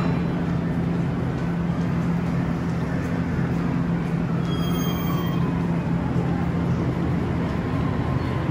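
JR East E233-series electric train pulling away from a station platform. Its electrical equipment gives a steady low hum, with a faint whine that glides down in pitch about halfway through and a brief high squeal around the same time.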